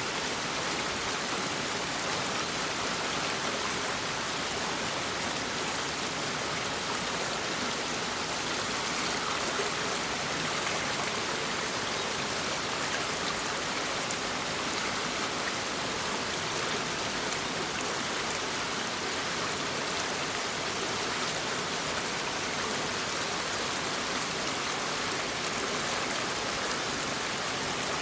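A shallow brook babbling over stones: a steady, even rush of water with no breaks.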